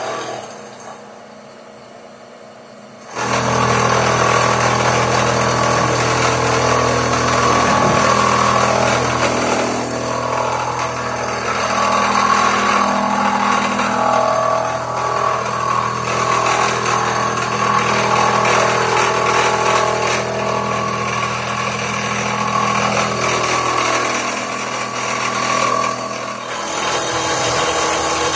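A power tool starts about three seconds in and runs steadily with a low hum under a rough, noisy grinding sound, easing briefly near the end before running on.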